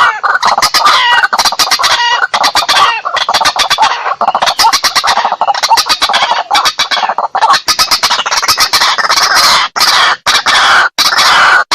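White-breasted waterhen calls: a loud, unbroken run of fast, harsh, clucking notes repeated many times a second, the bird's 'kruak-kruak' call.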